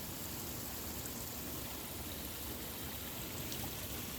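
Small seasonal waterfall running steadily, a continuous rush of falling water. It is fed by rain and snowmelt.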